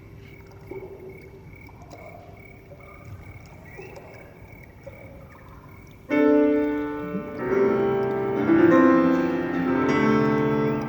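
Live ambient music: soft held tones for the first half. About six seconds in, a loud keyboard chord of many notes comes in suddenly and keeps sounding.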